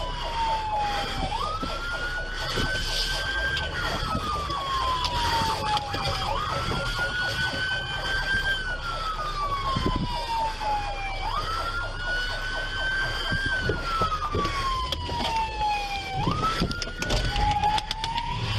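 Police siren on wail: each cycle jumps up, climbs a little, then glides slowly down over about three seconds, repeating roughly every five seconds. The last cycle breaks off near the end.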